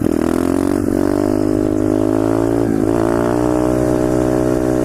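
Pit bike's small single-cylinder engine running as the bike is ridden. The pitch climbs slowly, dips briefly about three seconds in, then holds steady.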